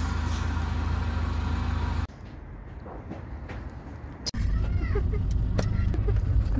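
Vehicle engine idling, a steady low hum, cut off sharply about two seconds in to a quieter stretch with a few faint clicks. From about four seconds in an idling engine is heard again from inside the vehicle's cab.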